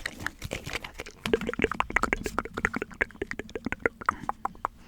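A rapid run of small, sharp clicks and taps close to the microphone, about ten a second, from about a second in until near the end.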